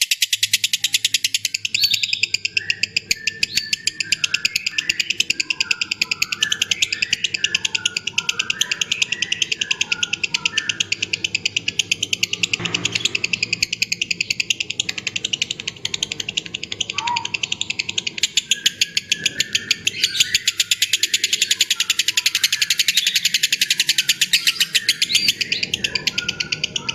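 Lovebird ngekek: a long, unbroken run of rapid, high-pitched chattering notes, many to the second, with scattered lower chirps mixed in.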